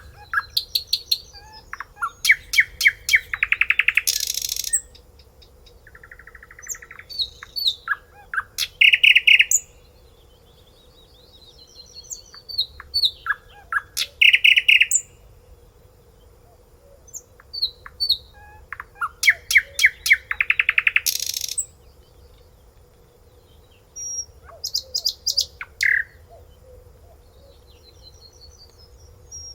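A finch singing: five songs of rapid repeated notes, each ending in a quick flourish, with short pauses between them.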